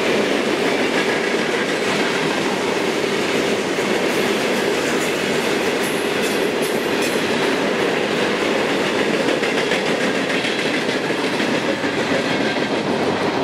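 Freight train of tank cars, a boxcar and a covered hopper rolling past close by: the steady noise of steel wheels running on the rails.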